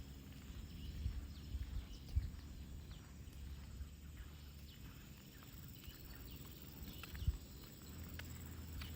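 Quiet outdoor ambience: wind rumbling low on the microphone, with a few soft thumps and scattered faint ticks from walking.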